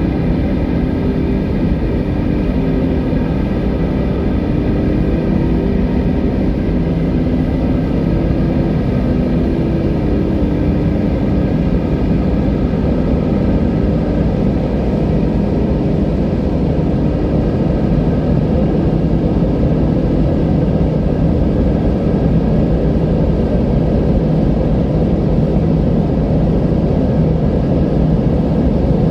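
Steady wind: a mostly low-pitched rush with faint whistling tones in it, the higher whistle fading about ten seconds in.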